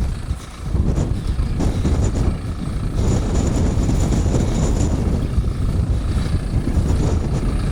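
Strong wind buffeting the microphone: a dense, gusting low rumble, after a blizzard.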